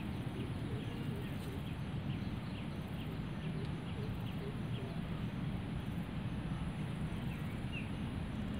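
Small birds chirping in short repeated calls over a steady low background rumble of open-air ambience.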